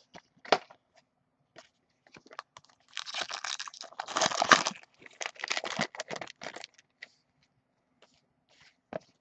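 A foil trading-card pack crinkling and tearing open, the loudest stretch in the middle, with scattered clicks and rustles of cards being handled before and after.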